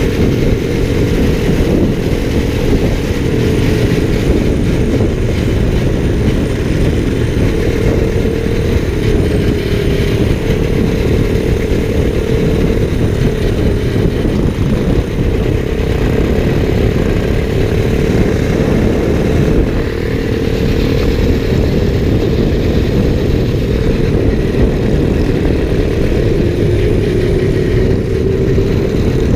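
Motorcycle engine running steadily at cruising speed, its note wavering only slightly, under heavy low wind rumble on a bike-mounted GoPro's microphone.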